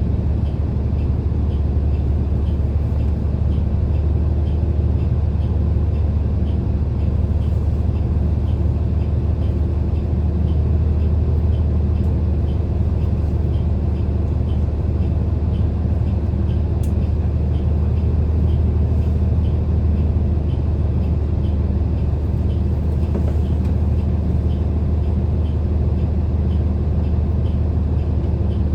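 Steady low drone of a city bus's engine and road noise, heard from inside the cabin while riding, with a faint regular ticking.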